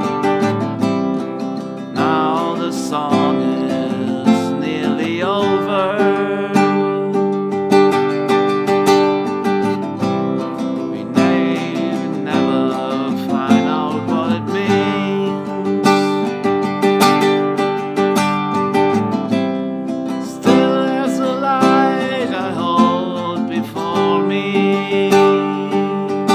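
Acoustic guitar strummed steadily. A wordless, wavering melody line plays over it in three phrases, starting about two, eleven and twenty seconds in.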